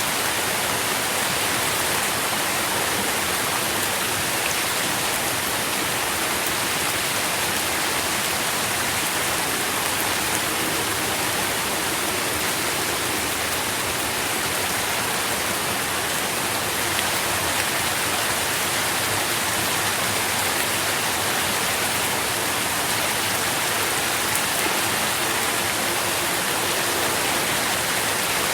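Steady rain falling, an even hiss with a few faint drop ticks and no change in intensity.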